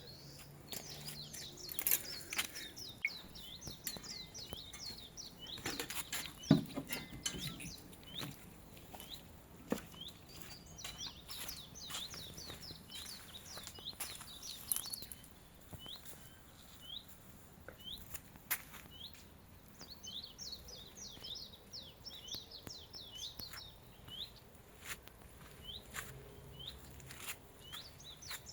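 Small birds chirping, many short high chirps in quick runs that come and go, with a few scattered knocks and clicks, the loudest about six seconds in.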